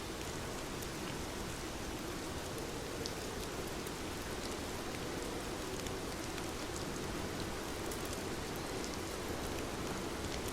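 Heavy rain falling steadily, with scattered fine taps of individual drops.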